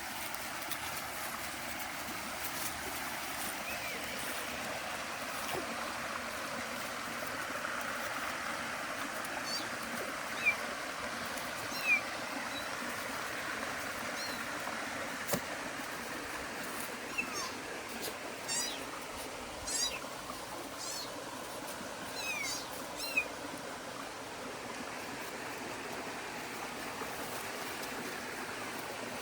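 Running stream, steady. From about a third of the way in to past the middle, a scattering of short, high animal calls sounds over it, along with a few sharp clicks.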